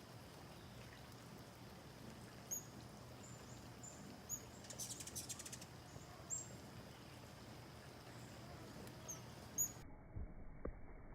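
Hummingbirds calling: a handful of short, high, faint chirps scattered through, and a rapid run of chattering clicks lasting about a second near the middle.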